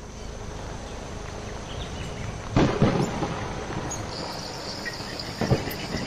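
A steady noisy rushing ambience with two sudden loud low rumbles, one about two and a half seconds in and another about five and a half seconds in. A high steady buzz joins about four seconds in.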